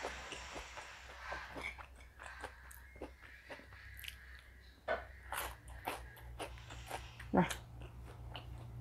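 A person biting and chewing crisp fried food close to a clip-on microphone: a string of sharp crunchy clicks, with a brief voiced 'mm' sound about seven seconds in.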